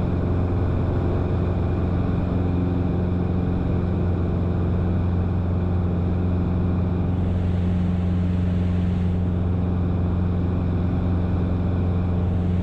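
Cessna 177RG Cardinal's fuel-injected four-cylinder engine and propeller running at a steady drone in flight, with a constant low hum and its octave and no change in pitch.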